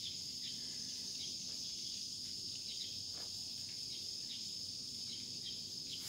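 A steady, high-pitched chorus of insects, crickets or similar, droning without a break.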